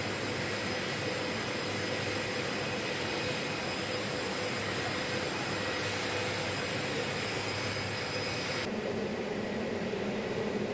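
Steady aircraft engine noise, a constant drone with a few held tones. It changes abruptly near the end, becoming duller with lower tones.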